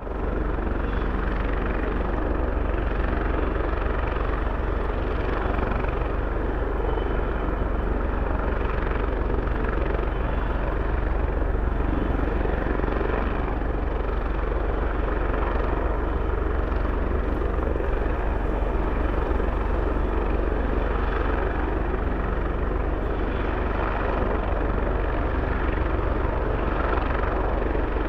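Airbus Helicopters H225 twin-turbine helicopter running steadily, its main rotor beating fast and even over the turbine noise.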